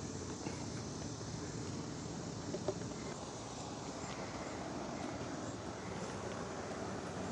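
Steady outdoor background noise with no clear single source, broken by a couple of faint small clicks, about half a second and nearly three seconds in.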